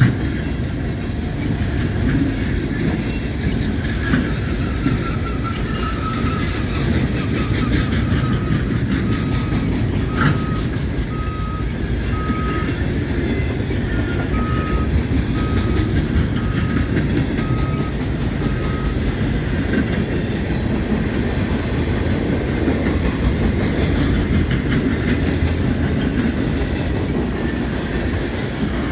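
Freight train rolling past at low speed, a continuous heavy rumble with wheels clattering over the rail joints. From about a third of the way in, a single high beeping tone repeats about once a second for roughly ten seconds.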